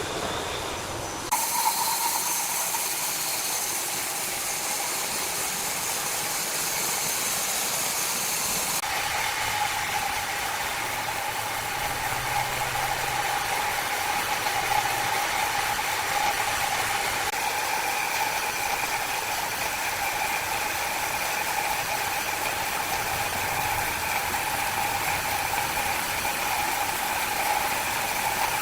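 Wood-cutting saw machine running steadily, a constant whine over a hiss of cutting noise. The sound changes abruptly about a second in and again near nine seconds.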